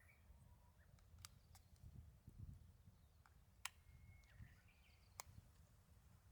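Near silence: faint outdoor background with a low rumble and a few scattered sharp clicks.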